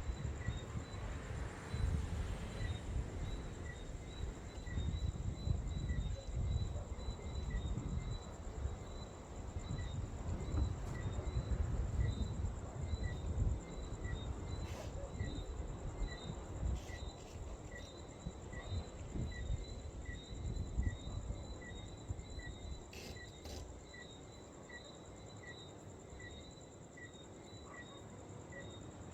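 Wind rumbling on the microphone, with a steady high insect trill and a small chirp repeating a little more than once a second.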